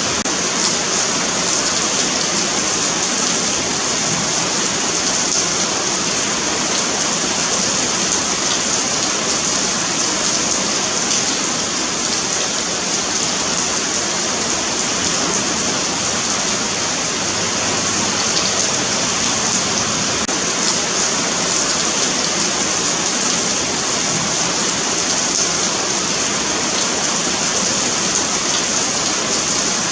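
Steady rain falling on a paved sidewalk, an even hiss with faint scattered drop ticks.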